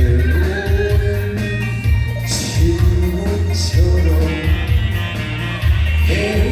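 A Korean pop song sung by a man over a backing band track with a heavy, steady bass beat.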